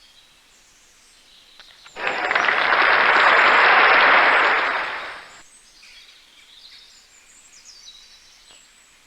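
Faint, high bird chirping in the background, with a loud burst of hissing noise about two seconds in that swells and fades away over about three and a half seconds.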